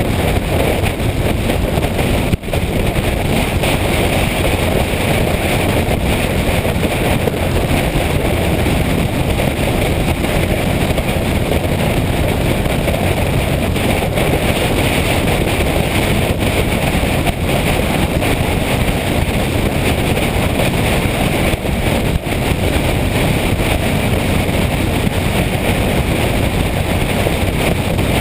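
Motorcycle on the move, steady wind rush over the microphone with the engine and road noise underneath.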